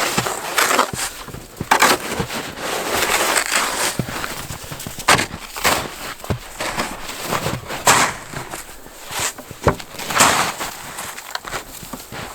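Snow shovel scraping and crunching into deep snow, stroke after stroke at an uneven pace, with a few sharp knocks.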